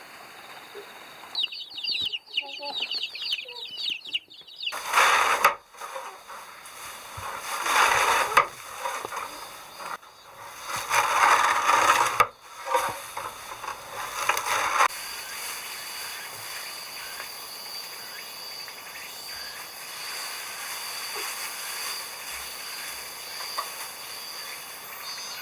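Chickens calling, with four loud calls of one to two seconds each in the first fifteen seconds, then quieter.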